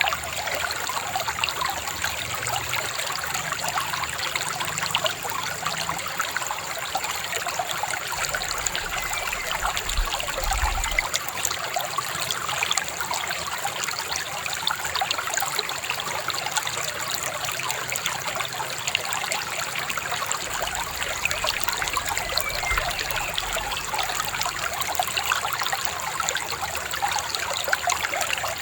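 Shallow river babbling and trickling over stones, a steady, unbroken rush of water.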